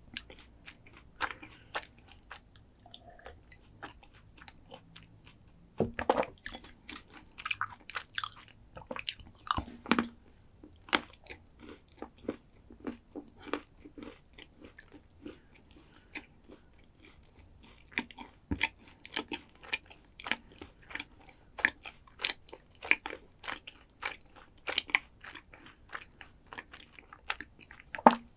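Close-miked chewing and crunching of chocolate dessert: irregular crisp crackles and mouth clicks, with a few louder bites.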